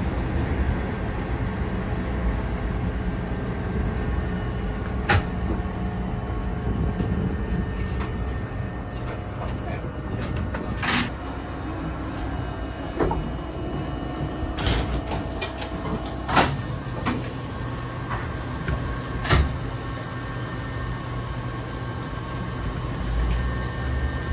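Eizan Electric Railway "Hiei" railcar heard from inside the car at a station stop: a steady low hum from the train, with several sharp clunks and knocks as the sliding doors work. Near the end a low rumble swells as the car starts moving.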